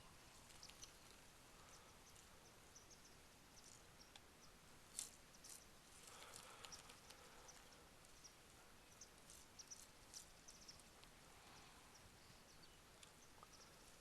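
Near silence: faint outdoor background hiss with scattered brief high chirps and ticks, one a little louder about five seconds in.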